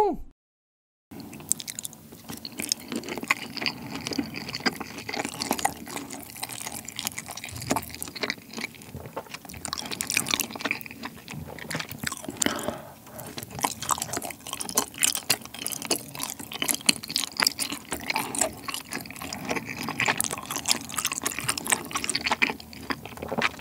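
Close-miked eating: wet chewing, smacking and clicking mouth sounds as sauce-glazed chicken and chewy rice cakes are bitten and chewed, going on densely and irregularly. A short whoosh right at the start is followed by about a second of silence before the eating begins.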